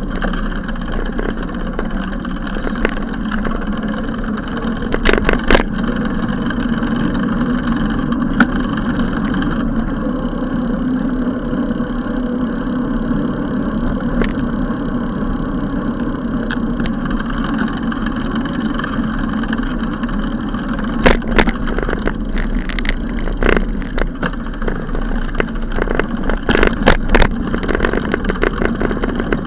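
Steady rushing road and wind noise from riding a bicycle, with scattered sharp knocks and rattles, bunched about five seconds in and again through the second half.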